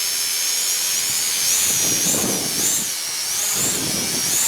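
Small drone's propellers whining in flight, the pitch rising and falling again and again as the motors fight strong wind, with wind hiss on the microphone.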